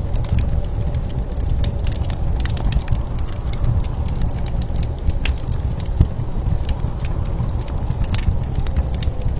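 Wood fire crackling with frequent irregular sharp pops, over a steady low rumble of blizzard wind.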